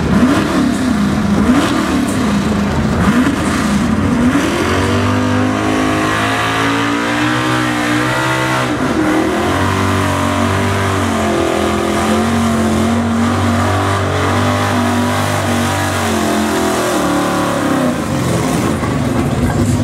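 Chevy pulling truck's carbureted engine revving under load. Its pitch surges up and down for the first few seconds, then holds high with a dip about halfway through and falls away near the end. The engine is misfiring from fuel starvation: the snap ring came out of the fuel pump's internal pressure regulator, sending fuel back into the tank instead of to the carb.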